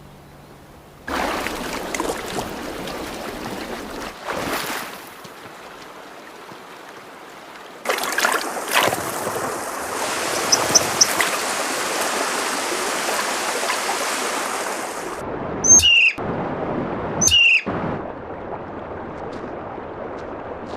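Rushing stream water, with a bird calling over it: three short high chirps near the middle, and two sharp calls sweeping downward in pitch near the end.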